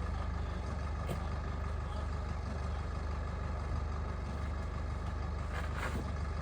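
A steady low engine hum, running evenly without change.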